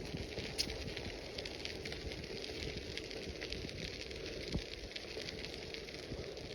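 Bicycle tyres rolling over a crushed-stone trail, a steady fine crackle of grit under the wheels over a low rumble, with a sharper click or bump about half a second in and again near the end.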